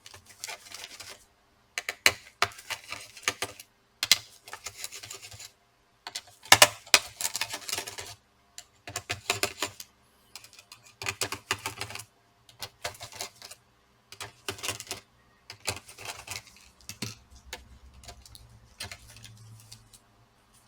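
Small screwdriver working the screws out of a laptop's CPU and GPU heatsink: repeated sharp clicks and short rattling bursts of the bit and small metal parts, in clusters every second or two.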